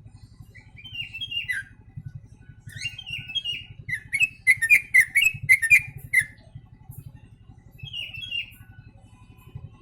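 Yellow-vented bulbul singing in short phrases of quick, chirpy notes, a song trained to copy the sooty-headed bulbul. The longest and loudest run of notes comes in the middle, with a shorter phrase near the end.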